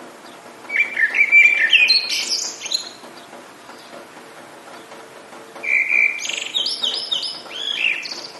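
A songbird singing two phrases of quick, varied warbles and trills, the first about a second in and the second from just past the middle to near the end, over a faint steady hiss.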